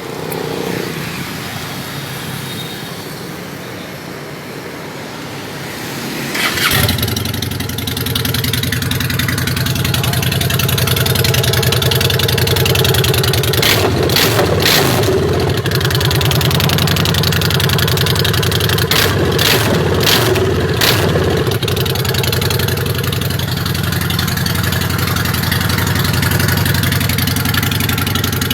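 A Phantom motorcycle's engine being started, catching with a sudden rise in level about seven seconds in, then idling steadily through its exhaust. A few sharp clicks sound around the middle.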